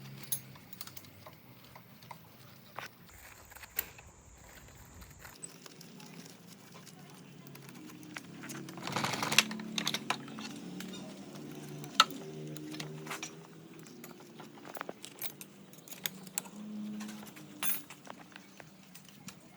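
Light metallic clicks, clinks and knocks from tools and parts being handled on a motorcycle repair bench, coming irregularly throughout. There is a short louder rush of noise about nine seconds in and a single sharp knock about twelve seconds in.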